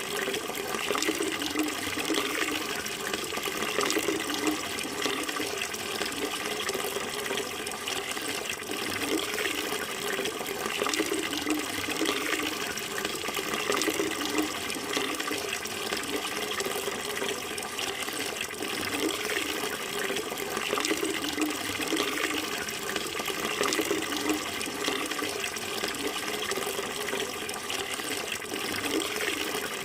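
Flowing water running steadily and continuously, an even rushing flow with no pauses.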